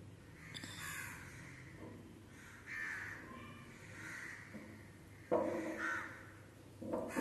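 A series of bird calls, several in a row with short gaps between them; the loudest starts suddenly about five seconds in.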